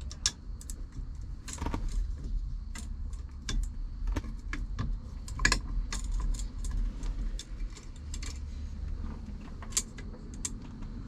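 Irregular small metal clicks and clinks of screws and steering-wheel mounting hardware being handled and worked into the wheel's holes, one of which is too tight to line up.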